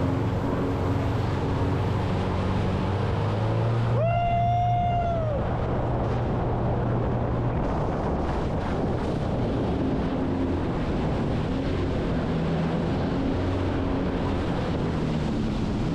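Personal watercraft (jet ski) engine running at speed across the water, with wind buffeting the microphone and spray hiss; the engine note shifts about halfway through. A single high-pitched tone sounds briefly about four seconds in.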